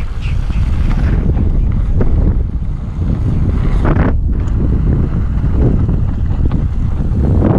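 Wind buffeting the microphone of a camera on a moving mountain bike, a loud low rumble, with a few knocks and rattles from the bike rolling over rough trail.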